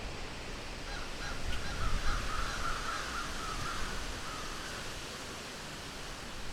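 An animal calling outdoors, a quick run of repeated harsh notes lasting about four seconds, over a steady background hiss.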